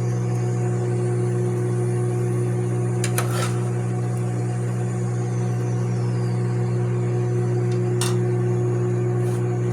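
A serving spoon clinks against a pot and bowl a few times, about three seconds in and again near the end, as chicken and rice are dished up. Under it a steady low electrical hum runs throughout and is the loudest sound.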